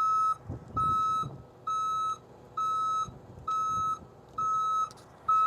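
Dump truck's back-up alarm beeping, a single steady tone repeating about once a second, over the faint low rumble of the truck as the bed is shaken to dump the load.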